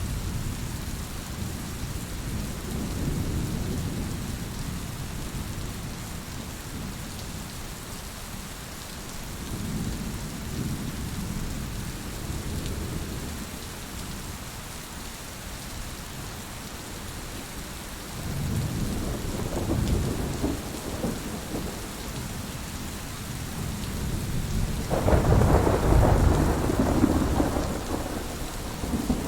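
Heavy rain falling steadily, with thunder rolling in several low rumbles. The loudest peal builds up a few seconds before the end.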